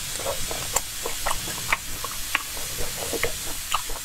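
Wet chewing of chewy noodles: a run of small moist clicks and lip smacks, several a second.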